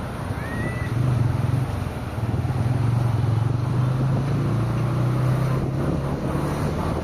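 Road traffic heard from a moving car: a steady low rumble of engines and tyres that grows louder about a second in and dips briefly near two seconds.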